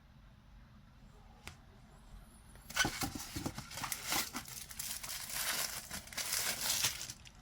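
Statue packaging being handled, crinkling and tearing for about four seconds, starting near the middle and stopping just before the end, after a single faint click.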